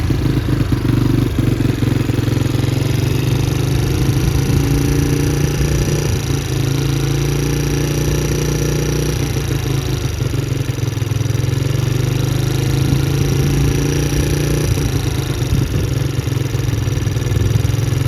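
Can-Am DS90 quad's small single-cylinder engine running steadily at a hot idle, its pitch wavering slightly. It is left running to seat a freshly repaired valve while the clogged carburetor clears itself out.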